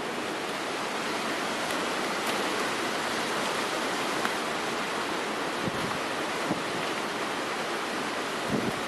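Steady, even rushing noise of storm wind and rain, with a few faint low thumps about six seconds in and near the end.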